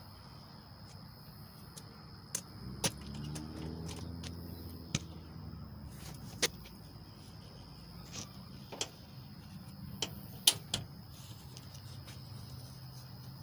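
A series of sharp, irregular clicks and knocks, about eight in all, over a steady high-pitched background whine.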